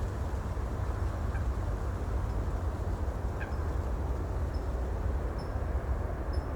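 Steady ocean ambience: an even, low rumbling wash of water noise. Faint short bird chirps sound a few times, and in the second half high peeps repeat about twice a second.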